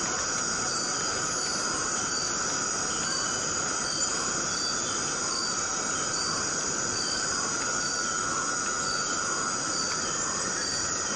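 Forest cicadas droning in a steady chorus, with a fainter chirp repeating regularly through it.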